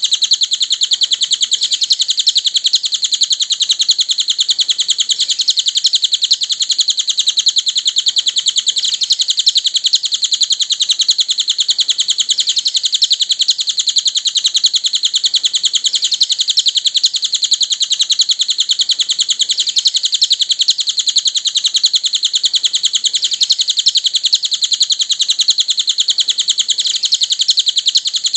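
Cililin bird song from a masteran (songbird training) recording: a continuous, rapid high-pitched chirping that runs on without a break.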